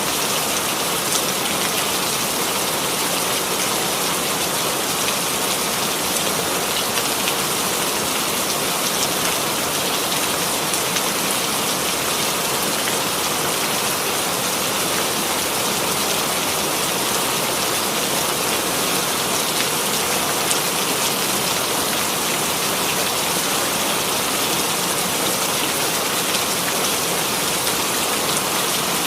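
Steady rainfall, rain pattering on a surface with no let-up or change.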